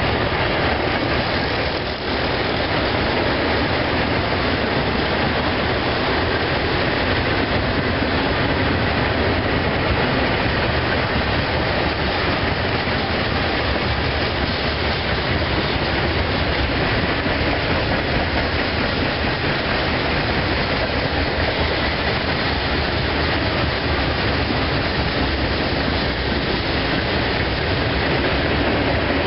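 Freight train cars rolling past on the track, a steady rumble and rattle of steel wheels on the rails.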